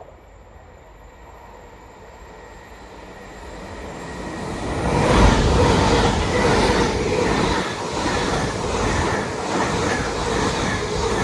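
LNER Azuma (Class 800 unit 800-109) passing through the station without stopping: its sound swells as it approaches and becomes a loud, steady rush of wheels on rail from about halfway through.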